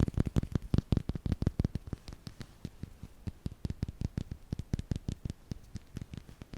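ASMR tapping: a quick, uneven run of light taps, several a second, heavier in the first two seconds and softer after.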